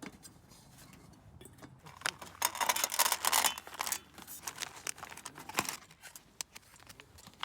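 Crinkling and rustling handling noise with many small clicks, densest and loudest from about two to four and a half seconds in.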